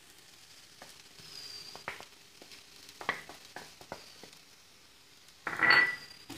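Sliced onions and green chillies frying quietly in coconut oil in a non-stick pan, with spice powders just added on top. There are a few light taps, and a brief louder noise about five and a half seconds in.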